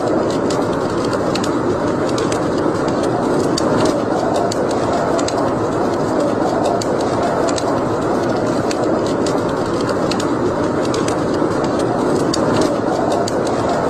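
Wood fire burning in a fireplace, crackling with frequent irregular sharp pops over a steady rushing noise.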